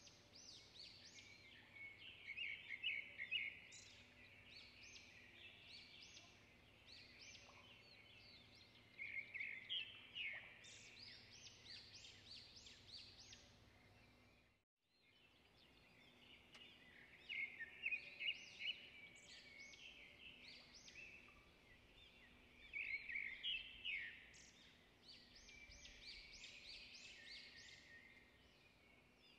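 Small birds chirping and twittering in quick, busy bouts that come and go every few seconds. The sound cuts out for a moment about halfway through.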